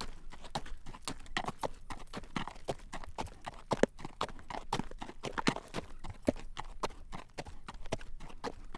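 Shod hooves of a carriage horse walking on a hard road: a steady run of sharp clip-clop strikes, several a second, in an uneven walking rhythm.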